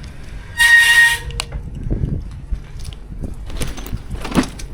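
E-bike brakes squealing sharply for about half a second, near the start. Scattered knocks and a rough scraping noise follow near the end.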